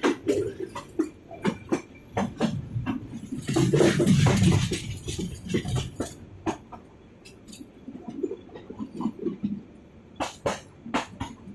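A moving train carriage rattling: irregular clicks and knocks, with a louder rush of noise about four seconds in.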